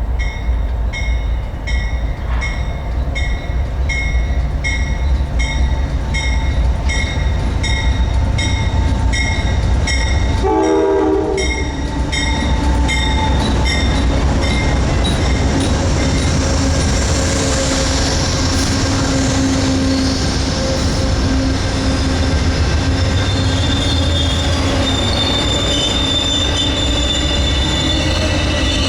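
Amtrak Southwest Chief passenger train pulling into the station: a heavy low locomotive rumble, with a bell dinging steadily through the first half and a brief horn-like tone about ten seconds in. Wheels and brakes then squeal high and steady as the train slows.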